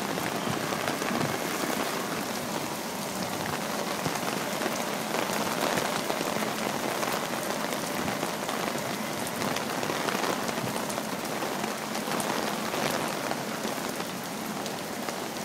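Heavy hurricane rain falling steadily on wet street pavement, a continuous even hiss.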